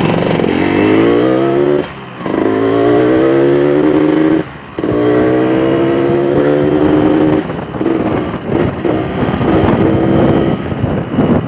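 Yamaha RX-King 135's single-cylinder two-stroke engine accelerating through the gears under way. The pitch climbs, drops with a brief break at a shift about two seconds in, climbs again and shifts about four and a half seconds in, then climbs slowly before easing off and turning uneven near the end.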